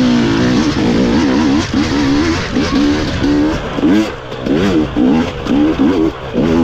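GASGAS EC250 two-stroke enduro motorcycle engine at full throttle, its pitch rising and falling over and over as the throttle is opened and shut on a technical single-track climb, with a few short lulls in between.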